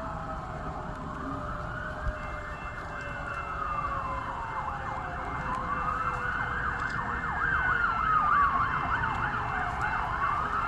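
Emergency vehicle siren wailing with slow rising and falling sweeps, switching to a rapid yelp partway through and back to a wail near the end, over a steady low rumble.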